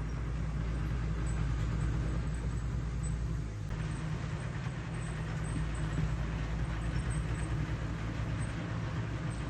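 Diesel engine of heavy earthmoving machinery running steadily under load, with a brief dip about three and a half seconds in followed by more clatter.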